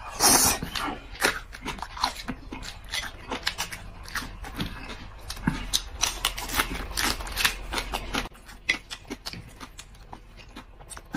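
A man chewing raw chili pepper: a steady run of small, irregular crunches and mouth clicks, with a louder crunch right at the start.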